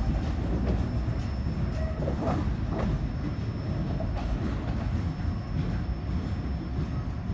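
Freight train rolling slowly, a steady low rumble with scattered wheel clicks and squeaks over the rails.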